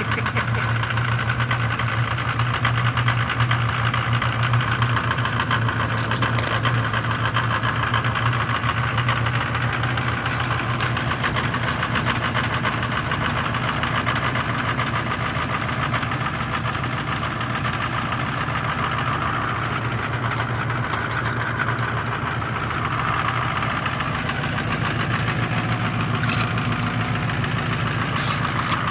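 Diesel truck engine idling steadily in freezing cold shortly after starting without a block heater, running rough, 'not happy'.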